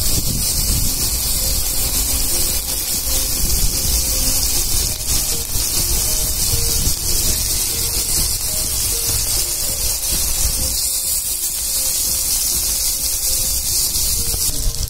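Chicken pieces shallow-frying in hot oil on a large flat griddle, a steady, dense sizzle.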